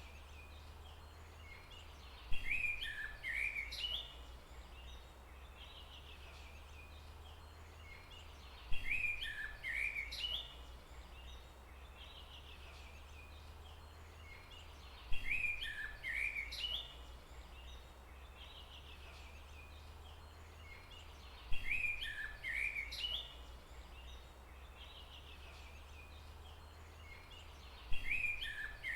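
Birdsong in a forest ambience: a short chirping phrase from a songbird, about a second and a half long, repeating the same way about every six seconds, five times, like a looped recording. A steady low rumble runs underneath.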